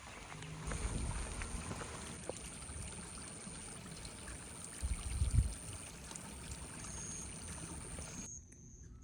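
Stream water rushing steadily along a forest trail, with a thin steady high tone above it and a low thump about five seconds in. The water sound cuts off abruptly near the end.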